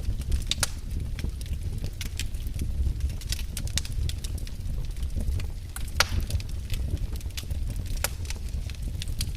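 Wood campfire burning: a steady low rumble of flames with irregular crackles and sharp pops of burning wood, the loudest pops about six seconds in and just after eight.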